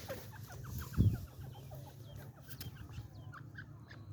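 Gray francolin calling: a trailing series of short, quick, rising notes, fainter than the loud call run just before. A low thump about a second in.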